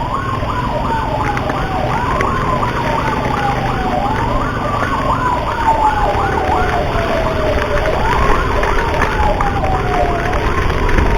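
Ambulance sirens going continuously. One is a slow wail that falls in pitch over two to four seconds and then jumps back up. Over it runs a faster warble that repeats about four times a second.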